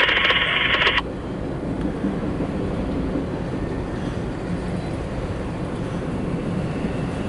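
A scanner radio's loud hiss cuts off sharply about a second in, leaving the steady low rumble of a CSX freight train of empty autorack cars running along the track.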